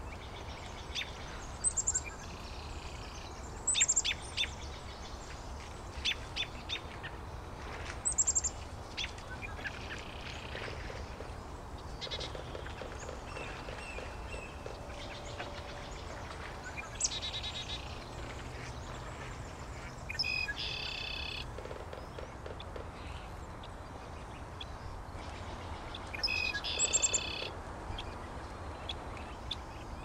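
Wild birds calling at intervals: sharp, high chips and short chirps, with a couple of longer calls about two-thirds of the way in and again near the end, over a steady low rumble.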